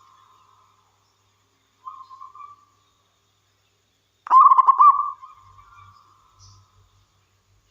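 Zebra dove (local perkutut) cooing: a short soft coo about two seconds in, then a loud phrase of quick rolling notes about four seconds in that trails off in a long drawn-out tail.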